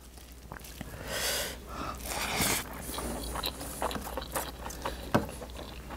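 A man chewing a mouthful of mutton stew and rice, with small wet mouth clicks and two loud breaths through the nose about one and two seconds in.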